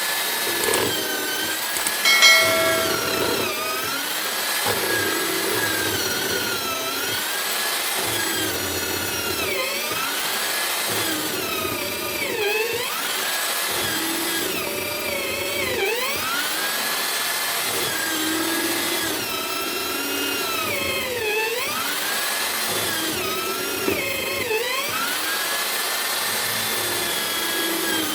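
Homemade drill-powered mortising machine cutting mortises in wood, its motor whine sagging in pitch and recovering about every three seconds under load.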